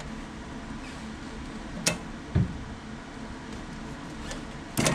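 A sharp click, then a dull knock about half a second later, and a quick pair of clicks near the end, over a steady background hiss: the sounds of a part being worked loose by hand during the furnace inducer motor swap.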